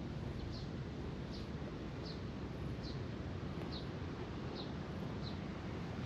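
A bird calling outdoors, a short high chirp repeated evenly about once every second, over a steady low rumble of background noise.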